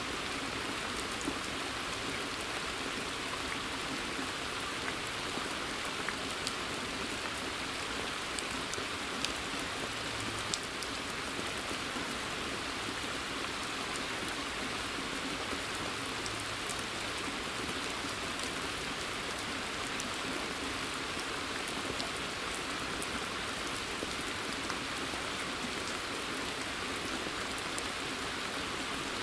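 Steady rain falling in a forest, an even hiss with a few sharper single drops ticking here and there.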